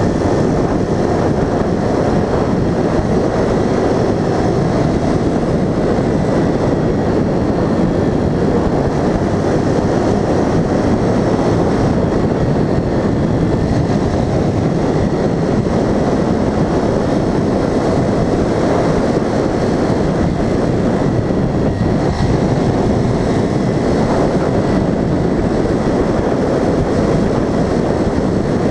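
A vehicle being driven: steady engine and road noise, heaviest in the low range, with a faint high whine that holds throughout.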